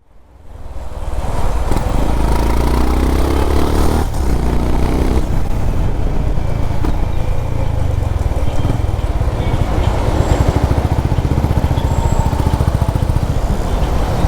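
Honda CB350RS single-cylinder motorcycle engine running under way, fading in at the start. Its pitch rises twice in the first few seconds as it accelerates through the gears, then it runs steadily.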